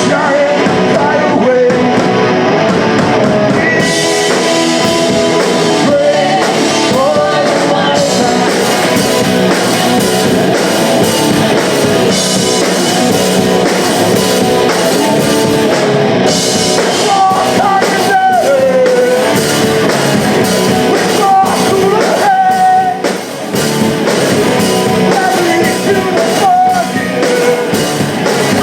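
Punk rock band playing live: loud guitars, bass and drum kit with a sung vocal line over them.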